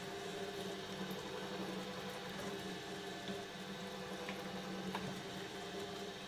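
Shredder motor running with a steady hum, with a few faint clicks and crackles as material goes through the blades.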